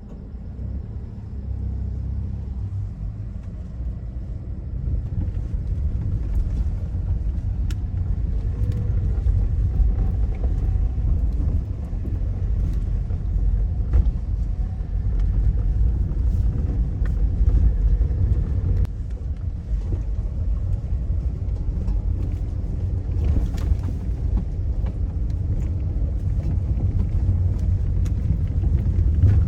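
A car driving, a steady low rumble with scattered small knocks and rattles.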